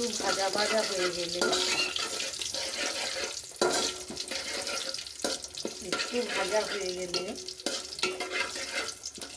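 Whole spices (bay leaf, dried red chillies, cumin seeds) sizzling in hot mustard oil in a pan while being stirred, with a few sharp knocks of the spatula against the pan, the loudest about three and a half seconds in.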